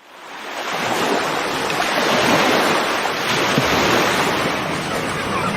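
A steady rushing sound of water, fading in over about the first second.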